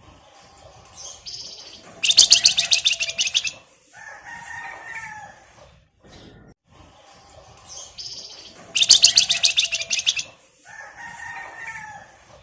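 Javan fulvetta (flamboyan, wergan Jawa) singing the same phrase twice. Each phrase is a short high note, a loud, fast, rattling chatter, then a few lower warbled notes.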